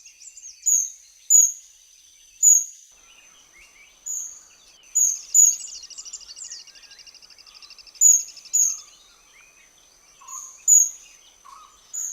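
Oriental dwarf kingfishers calling while courting: short, shrill, very high-pitched notes, often in pairs, repeated every second or two.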